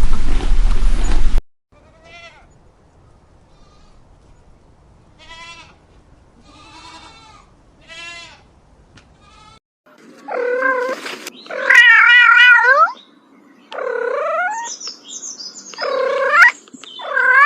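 A loud rushing noise cuts off abruptly about a second in. Several faint bleats follow, then five loud, wavering bleats from about ten seconds in.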